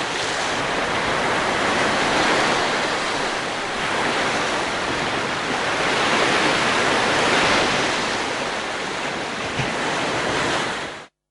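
Sea waves washing on the shore: a steady rush that swells and eases slowly, cutting off abruptly near the end.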